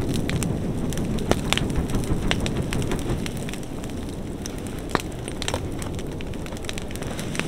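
Wood fire burning with a steady low rumble and irregular crackles and sharp pops, louder ones about a second in and near the middle.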